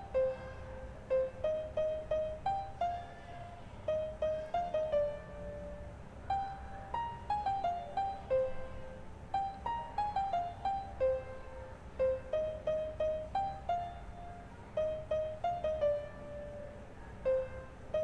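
Background music: a light piano-like melody of short notes in repeated falling phrases.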